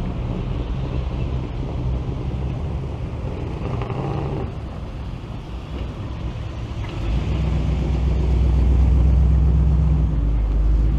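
Car engines running at low speed, with a steady low engine note. About seven seconds in, one engine grows clearly louder and stays close, as if a car is rolling by or idling nearby.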